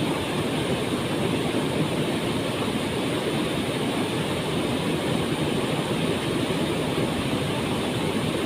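Waterfall crashing into its pool, a steady, even rush of falling water.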